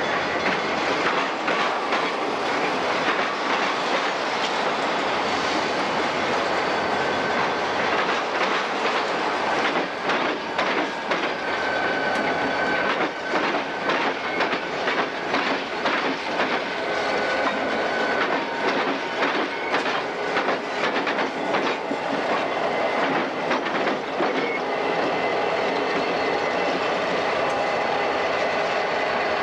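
Diesel-hauled freight train passing close by: the locomotives' engines and a steady rumble, with a rapid clickety-clack of wheels over rail joints that is busiest through the middle. A faint thin wheel squeal comes in briefly midway.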